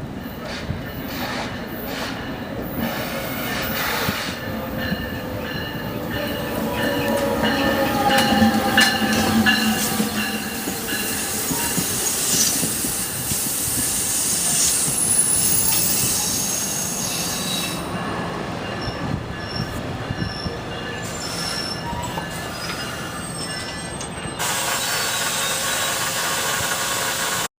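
Train running past on the rails, its wheels squealing, growing louder to a peak about a third of the way in and then easing off.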